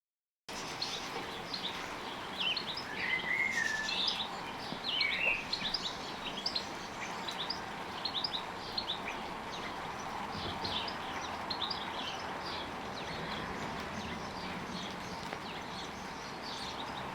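Small garden birds calling: many short, high chirps, with a couple of warbled phrases a few seconds in, over steady background noise. The sound cuts in suddenly about half a second in.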